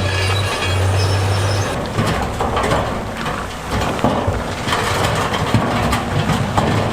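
Heavy earthmoving machinery working stone: a steady low diesel drone for the first couple of seconds, then rocks clattering and scraping with many sharp knocks.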